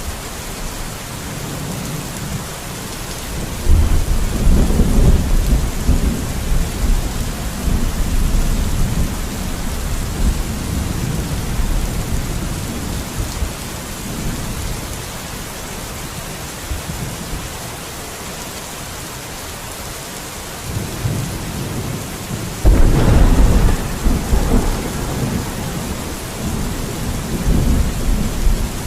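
Steady rain falling, with two low rumbles of thunder, one starting about four seconds in and a stronger one near the twenty-three-second mark, each rolling on for several seconds.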